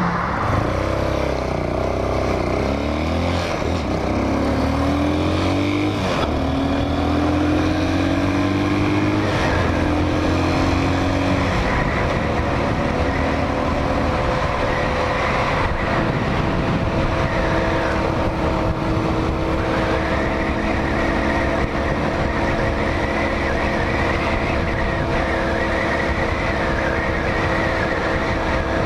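Hawk 250 motorcycle's single-cylinder engine while riding: it climbs in pitch and drops back several times as it shifts up through the gears, then settles into a steady cruise. Wind noise on the microphone runs under it.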